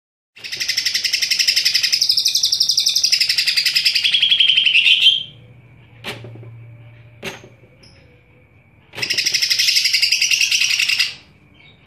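Cucak ijo (green leafbird) singing loudly in two long bouts of rapid, pulsed, chattering song, the first about five seconds long, the second starting about nine seconds in. In the pause between them there are two sharp clicks.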